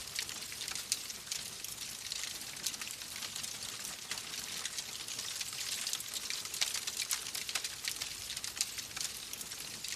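Wood fire crackling in a fireplace: a steady hiss thick with small crackles and pops.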